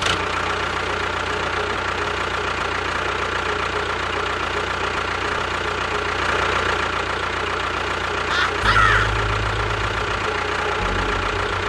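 An engine running steadily. A deeper low rumble comes in about eight and a half seconds in, stops briefly, then returns, with a short squeak just after it first starts.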